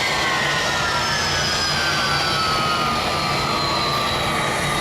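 McDonnell Douglas MD-82's rear-mounted Pratt & Whitney JT8D turbofans running loud and steady, their whine slowly falling in pitch over a low rumble.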